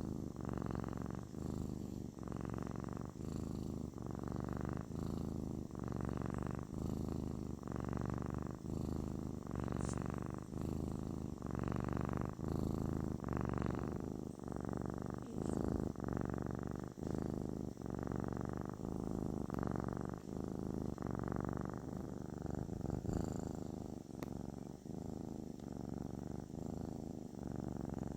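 Kitten purring continuously, the purr swelling and easing in a regular rhythm about once a second.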